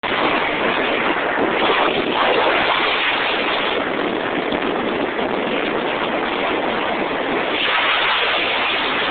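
Loud, steady rushing of wind and road noise from a car travelling at high speed.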